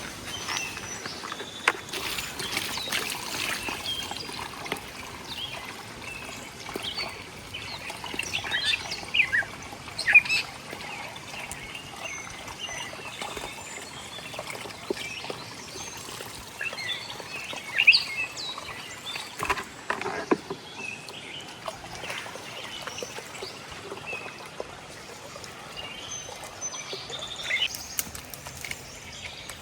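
Small birds chirping on and off over a steady faint outdoor background, with a few short knocks or taps scattered through.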